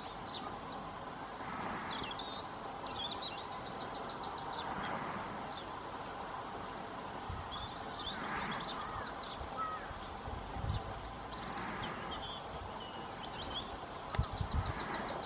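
Small birds calling and singing over steady outdoor background noise, with a quick, high trill of rapidly repeated notes about three seconds in, again around eight seconds, and near the end.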